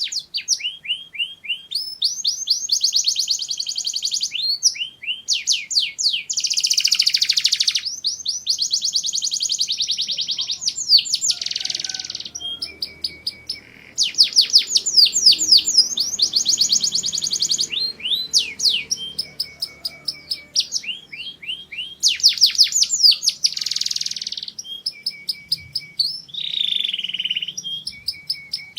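Domestic canary singing a long song of rapid trills: strings of fast repeated high notes alternating with buzzy rolls, broken by short pauses.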